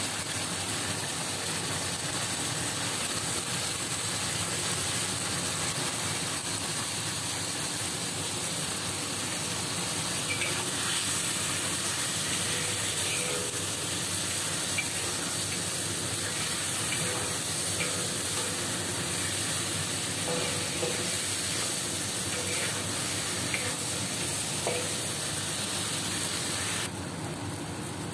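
Chicken pieces sizzling as they stir-fry in sweet soy sauce in a black wok, with a steady frying hiss and now and then a short clink or scrape of the metal spatula against the pan.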